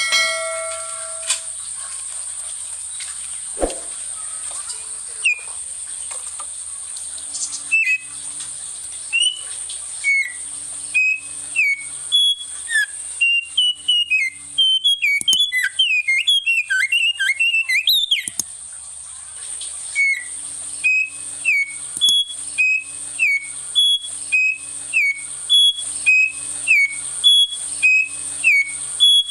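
Small songbird singing short whistled notes that slide up or down, mostly about one a second, with a quick tumbling run of notes about halfway through, and sharp clicks between the notes. A steady, very high thin tone runs underneath.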